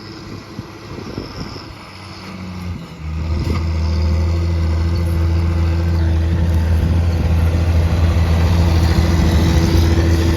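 A vehicle engine comes on abruptly about three seconds in, then runs steadily at a low, even idle close by.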